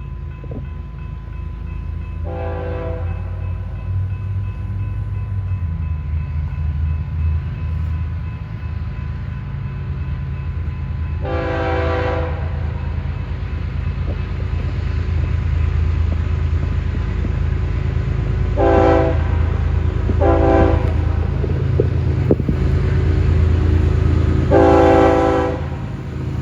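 Diesel locomotives of a loaded BNSF coal train rumbling past while the lead unit sounds its multi-note air horn in five blasts: a short one, a longer one, two short ones close together, and a longer one near the end.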